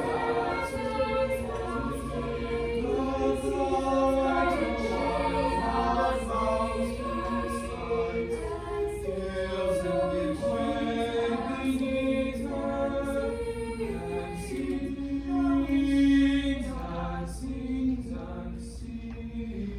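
Choir singing in harmony, several voice parts holding long notes together, growing softer near the end.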